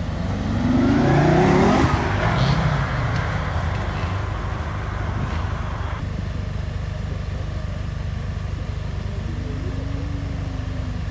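A Fiat Coupé pulling away from a standing start, its engine revs rising for about two seconds, then fading into the steady low idle of the cars queued behind.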